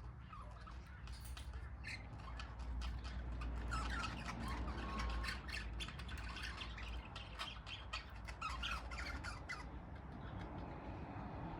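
A flock of budgerigars chattering and squawking, many short chirps overlapping, thinning out near the end, over a low steady rumble.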